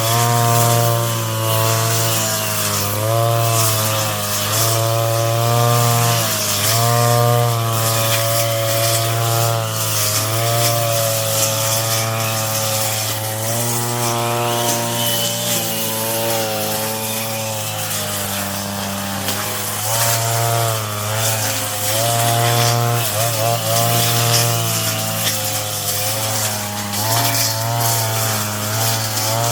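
Brush cutter engine running at high speed, a steady buzzing whine whose pitch dips briefly and recovers again and again as the blade takes the load of cutting weeds.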